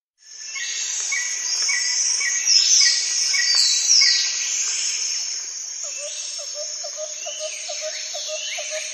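Birds and chirping insects, fading in at the start: bird calls sweeping down in pitch over a high hiss of insects, a short chirp repeated about twice a second in the first few seconds, and a lower call repeated about four times a second in the second half.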